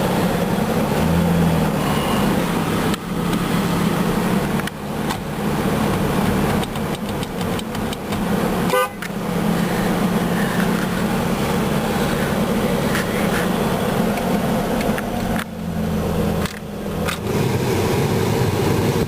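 2003 Ford Ranger XLT's 4.0-litre V6 engine running steadily after start-up, with a few brief dips in level.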